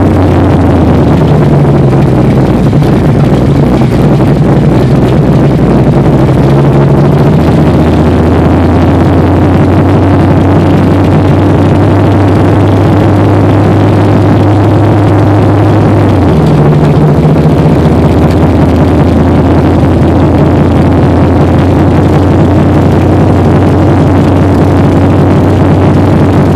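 Big-block Chevrolet V8 in a Chevelle heard from inside the cabin while driving, running loud and steady. Its pitch shifts a few times, with a brief dip about two-thirds of the way through.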